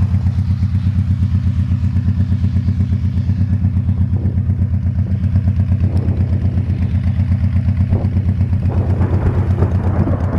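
Honda Shadow Spirit 1100's V-twin engine running at a steady, even pulse.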